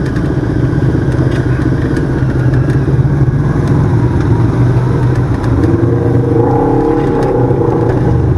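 Side-by-side UTV engine running steadily while under way, with a few light knocks from the ride; from about six seconds in a second, wavering higher pitch joins it.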